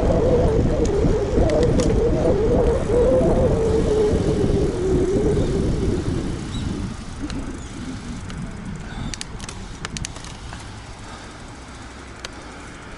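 Wind and road noise of a road bike moving fast, with a wavering hum in the rush, dying away after about six seconds as the bike slows. A few light clicks come near the end.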